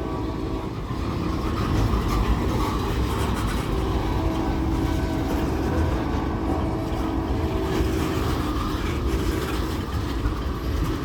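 Freight train running on the rails: a steady rumble of rolling cars, with a faint steady hum through it.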